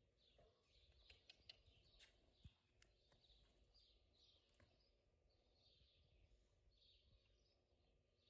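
Near silence, with a bird's faint high chirps repeating about once a second and a few faint clicks between one and three seconds in.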